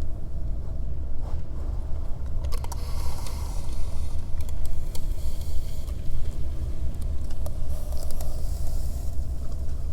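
A steady, loud low rumble with bursts of crackling and rustling from about two and a half to six seconds in and again around eight seconds.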